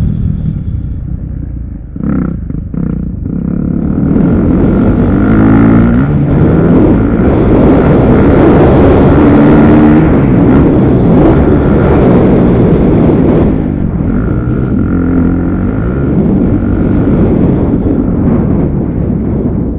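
Motocross dirt bike engines revving hard. The pitch climbs in short steps as the bikes shift up, and the sound is loudest in the middle.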